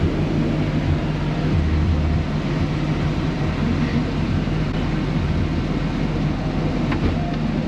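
Steady low mechanical hum with a wavering rumble underneath, from a running machine.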